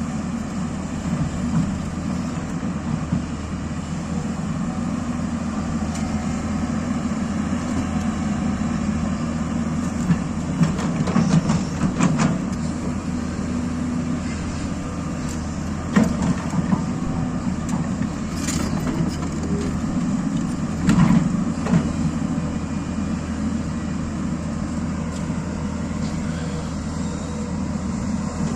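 Excavator's diesel engine running steadily, with a few short knocks now and then.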